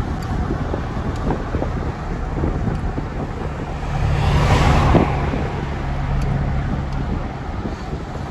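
Motor vehicle running with wind on the microphone; the rushing sound swells louder about four to five seconds in, then eases back.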